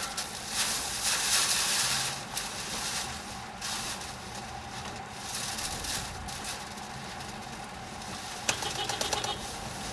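Tornado winds with rain or debris, a rushing, fluctuating hiss with pattering and rattling. There is a sharp knock about eight and a half seconds in, followed by a second of quick rattles.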